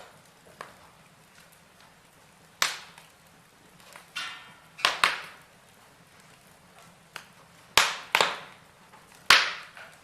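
Logs burning in a fireplace, crackling with about six sharp, loud pops, some in quick pairs, over a low steady hiss. A short fizzing sputter comes about four seconds in.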